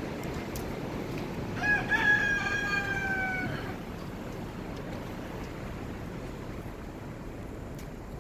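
A rooster crowing once, a single call of about two seconds starting about a second and a half in, over a steady rush of wind.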